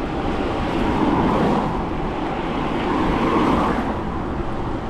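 Road traffic: motor vehicles passing, swelling twice, over a steady low rumble of wind and tyres on a moving bicycle.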